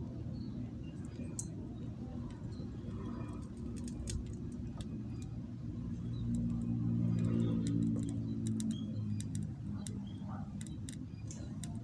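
A low engine-like hum that swells about six seconds in and eases off again, with scattered faint clicks.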